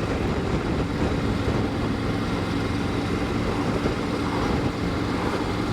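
Triumph Tiger 900 GT Pro's three-cylinder engine running at a steady cruise, a constant low hum under steady wind rush.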